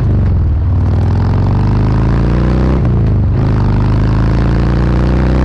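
Harley-Davidson V-twin motorcycle engine accelerating under load, its pitch climbing steadily, dropping briefly at a gear change about three seconds in, then climbing again.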